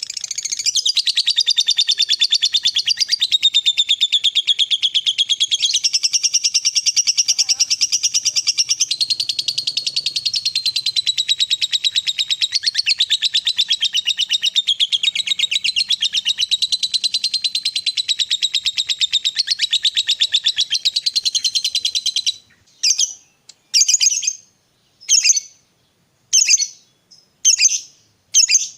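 Lovebird singing a long, unbroken, very fast chatter, the 'ngekek panjang' prized in fighter lovebirds, for about twenty seconds. It then breaks off into short separate calls, about one a second.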